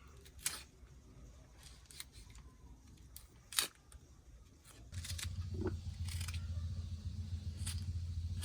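A few sharp knocks and clicks, the loudest about three and a half seconds in, then a steady low hum that starts about five seconds in.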